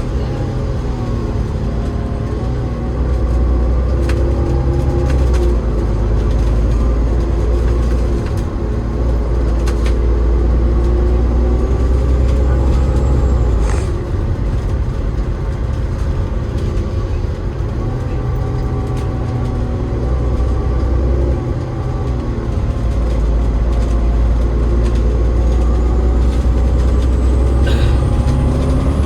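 A double-decker bus's Cummins ISL8.9 diesel engine and ZF EcoLife six-speed automatic gearbox running under way: a deep, steady drone with a whine above it. The note drops and rises in steps several times as the gearbox changes gear, with a few short rattles.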